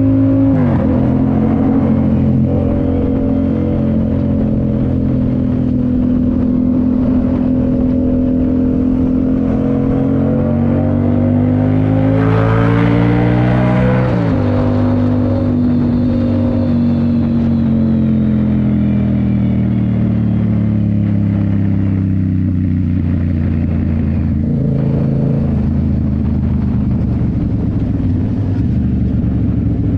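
2019 Yamaha MT-07's parallel-twin engine through a Toce full exhaust while riding. The engine note climbs slowly under acceleration, drops sharply at a gear change about halfway through, then falls away as the bike slows and runs steady near the end.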